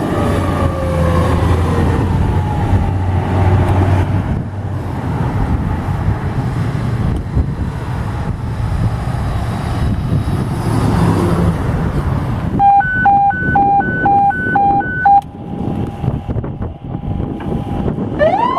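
Emergency vehicle traffic: engine rumble and road noise, with a falling siren tone near the start. About two-thirds of the way in come five short, even, high beeps, followed by a steady tone, then a siren begins to wind up at the very end.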